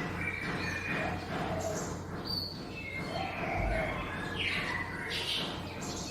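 Small songbird singing a quick run of short, varied high chirps and trills over a steady low hum, with a brief low bump a little past the middle.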